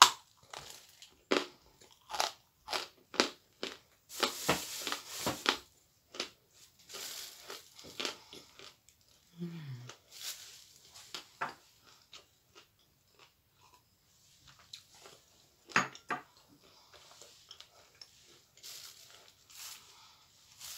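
Biting into a dry block of edible clay and chewing it: a string of sharp, crisp crunches in the first few seconds, then softer, scattered crunching and chewing.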